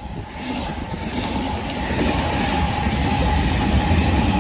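Freight train running along the track, its rumble and rail noise growing steadily louder as it comes closer, with a steady thin whine above it.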